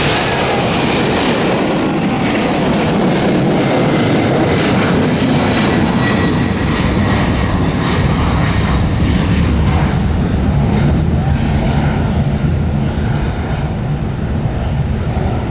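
Boeing 747-400's four turbofan engines running at takeoff power, a loud steady rumble. A faint high whine sits in it for the first few seconds, and the sound grows deeper as it goes.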